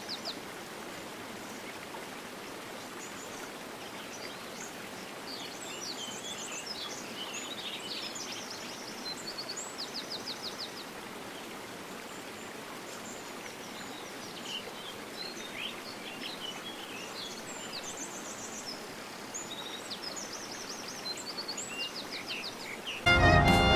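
Steady rush of a fast-flowing stream, with small birds chirping and giving quick trills over it.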